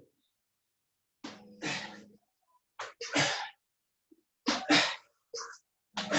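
A man's sharp, forceful breaths, about five short bursts, some in quick pairs, as he does explosive frog jumps.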